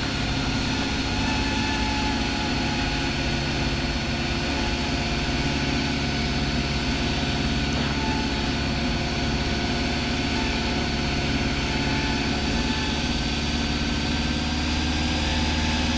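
Cessna 172's piston engine and propeller droning steadily in cruise flight, heard inside the cockpit.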